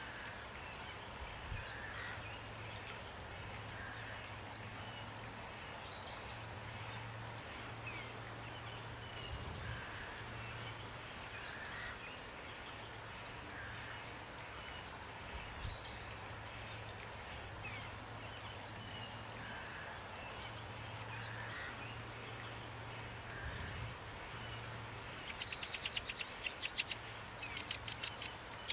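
Songbirds chirping and calling over a steady hiss of rain, with a fast rattling trill near the end.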